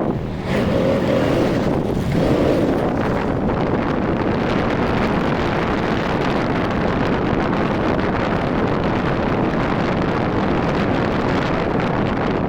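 Wind rushing over the microphone, along with the engine and road noise of a Rusi RFI 175 motorcycle being ridden. The sound is steady, apart from a brief dip about half a second in.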